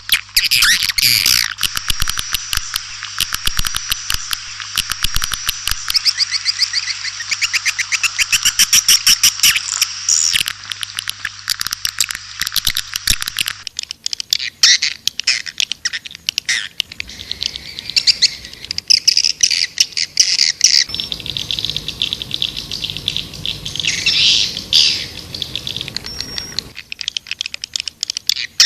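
White-nest swiftlet call recording: dense, rapid chirping and buzzy twittering trills from many birds. The sound changes abruptly about halfway through and again near the end, as one recorded segment gives way to the next.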